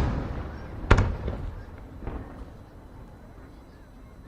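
Aerial firework shells bursting. A loud burst is fading at the start, then a sharp bang about a second in with a long echoing decay, and a fainter bang about two seconds in before it dies away.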